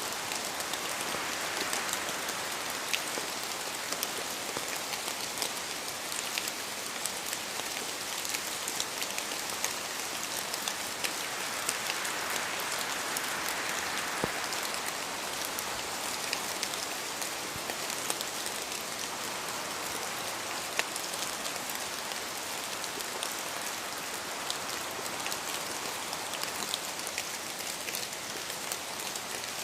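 Steady rain in a forest, with many scattered drips and drops falling from the trees onto leaves and the ground.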